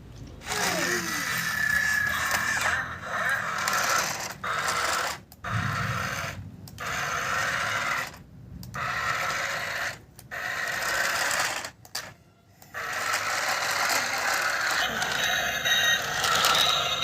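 Remote-control toy robot car's small electric motor and plastic gears whirring in runs, cutting out and starting again about five times.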